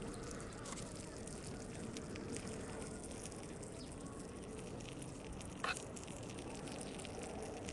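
Small wood fire crackling in a Vargo Hexagon camp stove, a steady hiss with many small clicks and one louder pop about five and a half seconds in.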